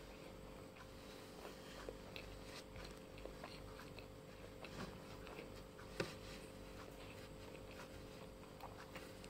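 A person chewing food, faint, with scattered small mouth clicks and one sharper click about six seconds in, over a steady low hum.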